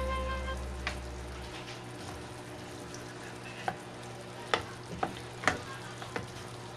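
Food sizzling as it fries in a pan while being stirred, with a utensil clicking against the pan several times.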